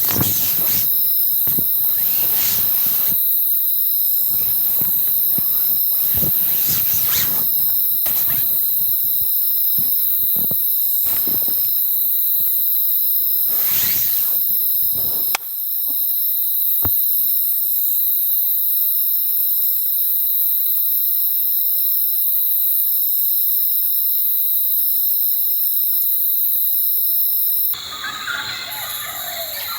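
Steady high-pitched chorus of night insects, crickets among them, with soft irregular rustles and knocks through the first half and a single click midway. Near the end it gives way to birds chirping.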